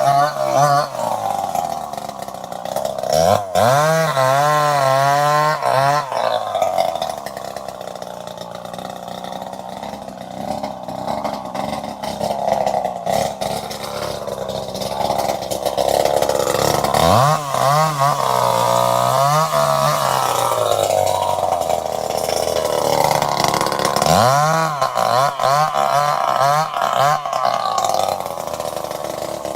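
Two-stroke chainsaw engine running, revved up three times with a wavering pitch, about three seconds in, past the middle and near the end, and dropping back to a lower, rougher running speed in between.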